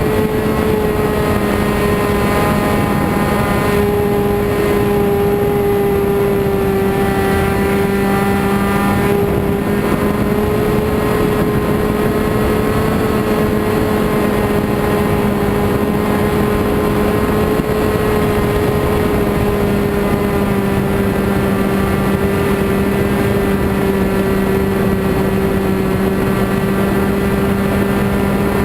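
Small RC model airplane engine running at a steady speed, a constant buzzing drone whose pitch wavers only slightly.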